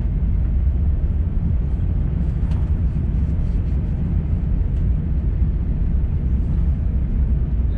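Steady low rumble of an Airbus A350-900 cabin during taxi after landing: the Rolls-Royce Trent XWB engines at idle and the aircraft rolling, with a few faint clicks.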